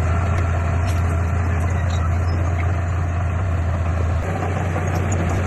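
Heavy diesel earthmoving machinery engine running steadily with a strong low drone, easing slightly about four seconds in.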